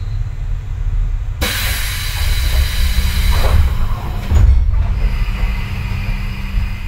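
Running sound inside a 6050-series electric train: a steady low rumble of the wheels on the rails. A sudden loud hiss cuts in about a second and a half in, lasts about three seconds and then fades. A steady low hum joins about three seconds in.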